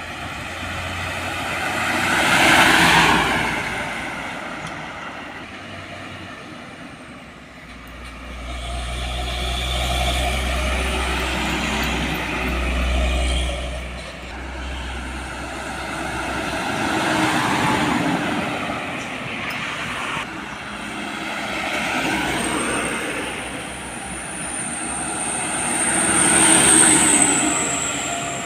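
Heavy trucks and other traffic passing on a road one after another, each swelling and fading, with a deep engine rumble in the middle. A thin high whine rises and falls near the end.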